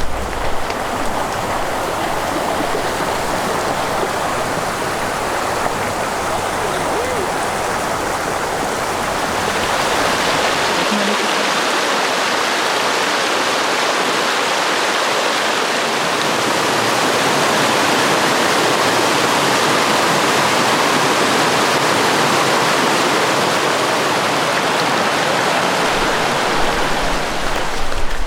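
Steady rush of flowing water, as of a mountain stream.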